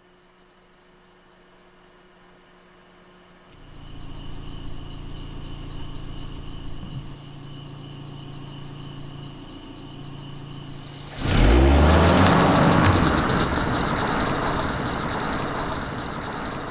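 Car engine: after a quiet start it hums steadily at a low idle, then about eleven seconds in a much louder engine rush surges in with a falling pitch and slowly fades.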